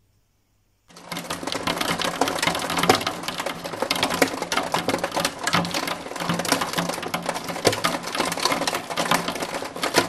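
Hail falling: a dense, rapid clatter of hailstones striking, starting about a second in.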